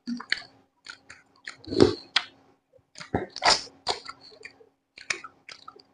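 Close-up mouth sounds of someone eating: irregular wet chewing clicks and smacks, with a couple of louder bursts of chewing.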